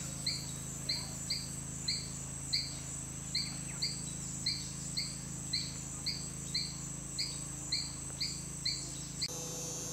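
Rainforest bird calling one short chirp over and over, about two a second, over a steady high insect drone and a low hum. The calls stop about nine seconds in.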